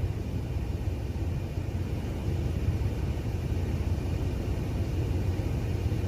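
Strong wind buffeting the microphone: a steady, fluttering low rumble.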